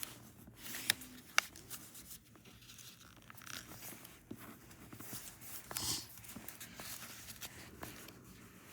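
A sheet of paper being handled and folded: faint rustling and creasing, with two sharp clicks between one and one and a half seconds in.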